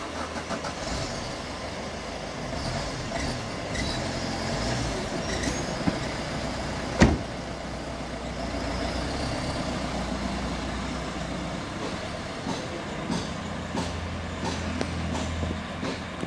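Maruti Suzuki Swift's 1.3-litre DDiS four-cylinder diesel engine running steadily and smoothly, without shaking or odd noise, growing a little louder near the end as the car moves off slowly. A single sharp thump about seven seconds in is the loudest sound.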